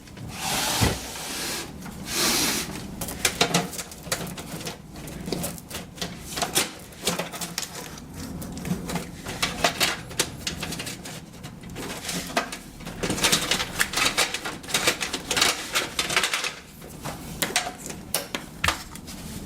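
Hands working inside a PC case, reaching for and handling a SATA cable: irregular clicks, taps and rustling throughout.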